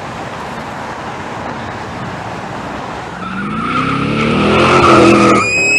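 Car engine running, then revving up with a rising pitch from about three seconds in, while its tyres squeal in a long skid that climbs higher near the end.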